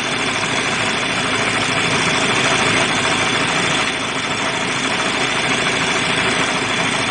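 2013 Chevy Malibu's 2.5-litre four-cylinder engine idling steadily, running normally after a loose engine ground was repaired.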